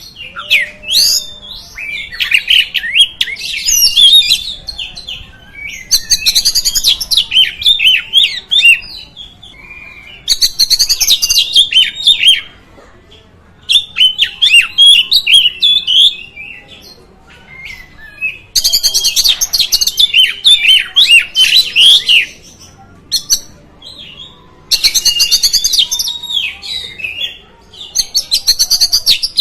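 Oriental magpie-robin (kacer) singing: bursts of rapid, varied whistles and chattering notes, each phrase lasting two to four seconds with short pauses between.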